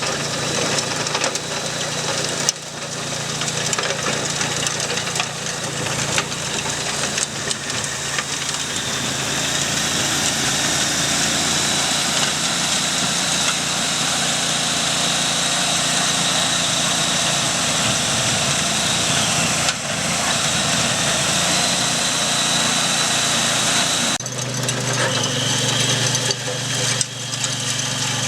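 Walk-behind power tiller's engine running steadily while driving a rotary tilling attachment. Its note changes about 24 seconds in, turning deeper and stronger.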